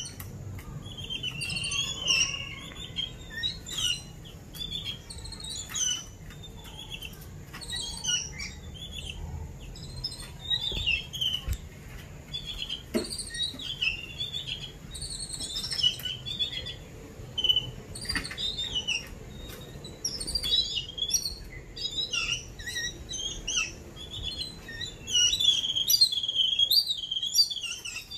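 Jungle babblers calling: many short, harsh overlapping chirps, busiest and loudest near the end.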